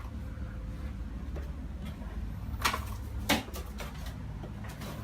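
Two short knocks about half a second apart, the second the louder, over a steady low hum.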